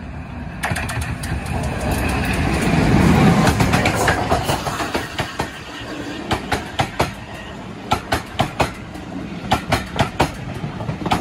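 Locomotive-hauled passenger train running slowly into a station: a low rumble swells as the locomotive passes, then the coaches' wheels click over the rail joints in quick pairs.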